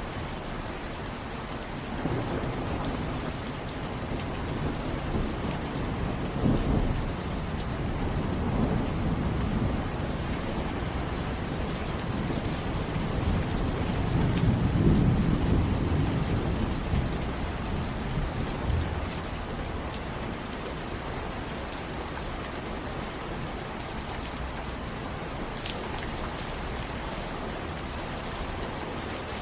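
Steady heavy rain falling, with a long low rumble of thunder that swells a couple of seconds in, peaks around the middle and dies away well before the end.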